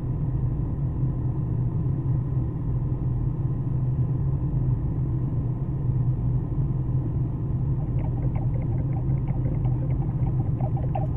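A front-wheel-drive car's engine running steadily at idle, a low even drone heard from inside the cabin.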